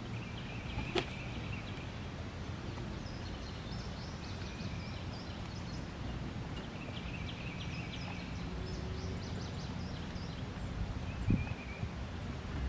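Small birds calling in short trills of quick high notes, several times, over a steady low rumble; a sharp tick about a second in and a low thump near the end.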